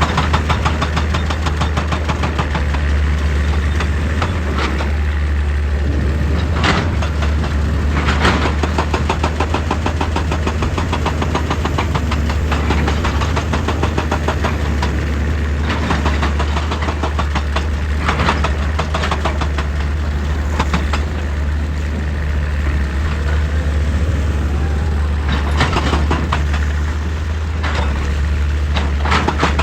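Excavator's diesel engine running steadily under load, with knocks and scrapes every few seconds as the bucket works into rock.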